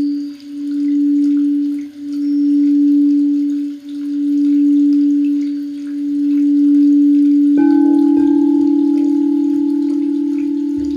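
Singing bowl held in a steady low hum, swelling and dipping about every two seconds as its rim is circled. About two-thirds of the way through it is struck, adding higher ringing tones, and it rings on with a fast wobble while slowly fading.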